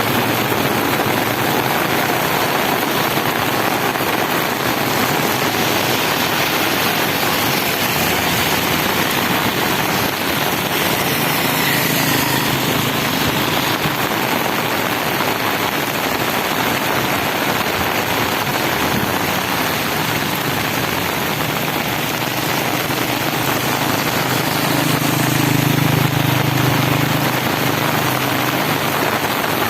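Steady heavy monsoon rain with road traffic passing; a vehicle's engine grows louder about 25 seconds in.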